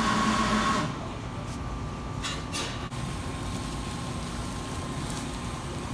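Steady low rumble with a faint steady hum above it, a little louder in the first second, and brief soft hissing noises about two and a half seconds in and again near the end.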